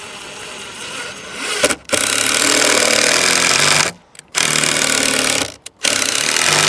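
Ryobi cordless impact driver driving screws into a fence board, in three long bursts with short pauses between them.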